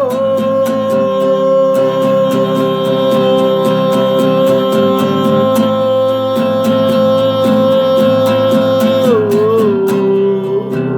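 A singer holds one long sung note over a strummed acoustic guitar. About nine seconds in the note steps down to a lower pitch with a short waver and is held again.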